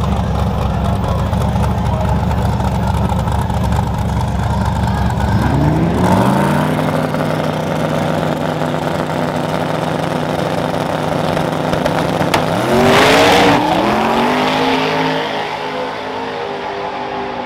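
A truck engine revved up twice, about six seconds in and again about thirteen seconds in, the second rev the loudest, each time settling to a steady run afterwards.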